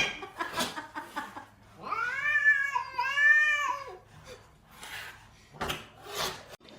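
A cat meowing: one long, drawn-out call in two rising-and-falling parts, starting about two seconds in, with a few short noisy sounds near the end.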